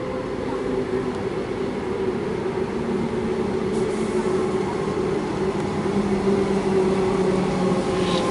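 Comeng electric suburban train at the platform, its equipment humming steadily with several tones, slowly growing louder.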